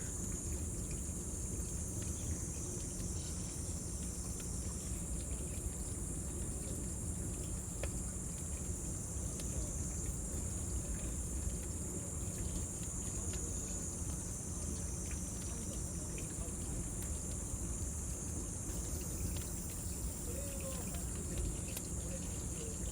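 Cicadas singing in a steady, high-pitched drone over the low, even rush of a bonfire, with occasional faint crackles.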